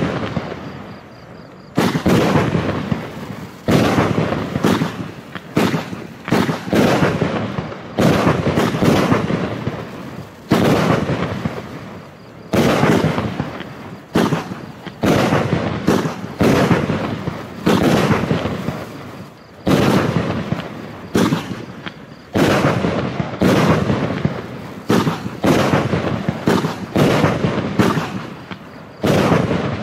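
A 25-shot, 30 mm fireworks cake firing shot after shot, roughly one every one to one and a half seconds. Each shot is a sharp bang that fades out over about a second before the next.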